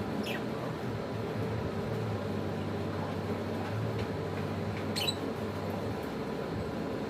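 Lovebirds giving two brief high squeaks, a faint one near the start and a sharper one about five seconds in, over a steady hiss and a low hum.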